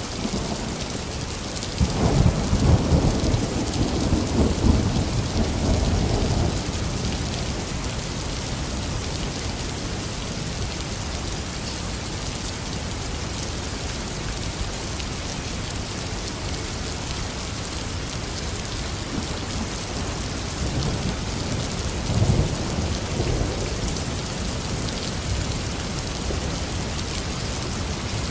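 Heavy rain falling steadily, with a loud low rumble of thunder about two seconds in that lasts some four seconds, and a fainter roll of thunder past the middle.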